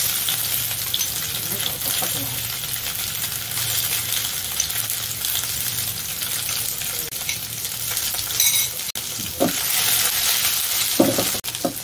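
Pieces of fish paste sizzling and crackling in hot oil in a non-stick wok, frying to golden brown.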